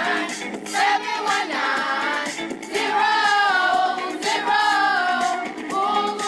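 A group of children singing a jingle melody together over a backing track, holding long sung notes.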